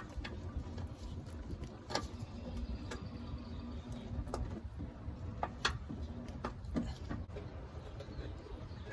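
Scattered light clicks and knocks of hand and tool against the oil filter and its housing as the filter of a Suburban's 5.3L V8 is worked loose, over a low steady rumble.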